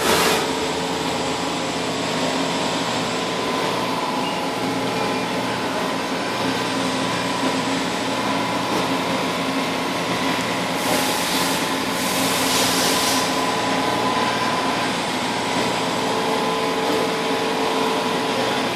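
Okuma LT200MY multi-axis CNC lathe running with a steady hum and whine of several held tones. About eleven seconds in come two short bursts of hiss.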